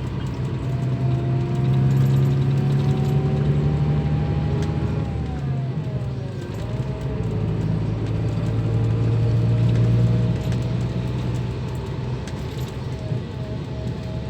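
Scania K340 bus diesel engine pulling under load, its note rising steadily. About six seconds in it dips sharply and picks up again, as at a gear change, then climbs once more before easing off near the end.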